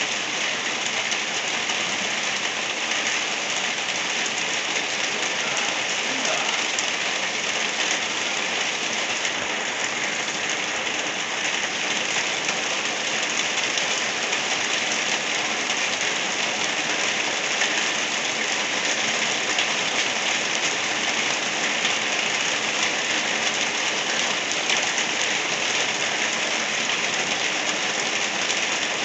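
Steady rain falling: an even, unbroken hiss with no pauses or surges.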